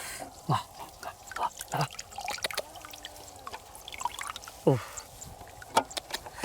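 Water dripping and trickling, with scattered small clicks and splashes.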